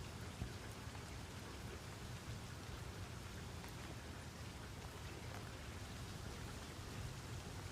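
Steady rain falling, an even hiss of drops pattering on a surface, with a single sharper drop about half a second in.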